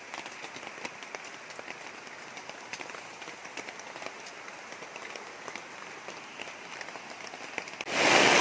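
Steady rain, a haze of many small drops pattering on surfaces. Near the end a much louder steady rushing noise cuts in abruptly.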